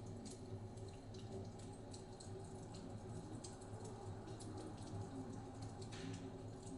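Wood fire crackling in a fireplace: a run of small irregular pops and snaps over a steady low rumble.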